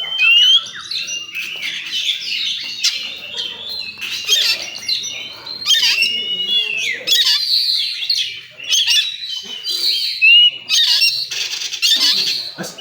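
Oriental magpie-robin (kacer) singing a fast, varied song of rising whistles and harsh chattering notes, with a long arched whistle about halfway through.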